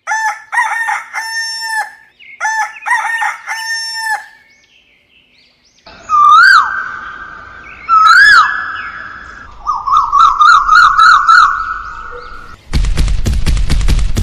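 Rooster crowing several times, with loud drawn-out calls that bend up and down. About a second and a half before the end, a loud rapid clatter of sharp clicks sets in.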